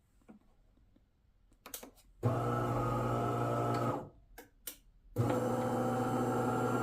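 DeLonghi Magnifica XS espresso machine's pump buzzing steadily in two runs, the first starting about two seconds in and stopping near four seconds, the second starting about five seconds in, with a few clicks before each. This is the machine's start-up rinse after being switched back on.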